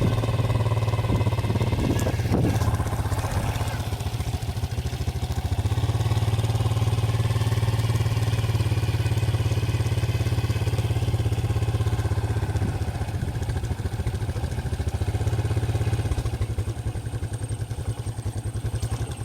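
Small motorcycle engine running steadily under way, easing off about four seconds in and again near the end. A brief clatter comes about two seconds in.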